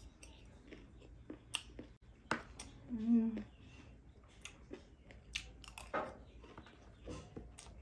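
Close-up mouth sounds of someone chewing crunchy chatpate, a spicy puffed-rice snack: a string of sharp, irregular crunches. A short hummed "mm" comes about three seconds in.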